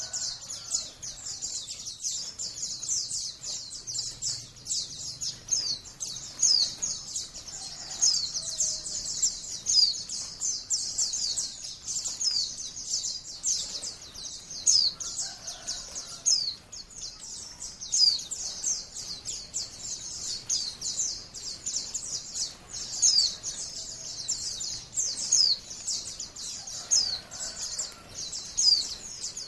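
White-eyes (Zosterops, pleci) singing in a fast, unbroken stream of high twittering chirps with many sharp downslurred notes, the wild-style 'ngalas' song with high 'nembak' shots.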